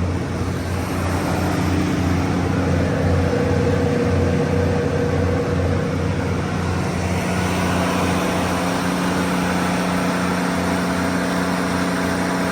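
Cummins QST30-G2 V12 diesel engine of a 750 kW standby generator set running steadily at constant speed, with a low, even hum.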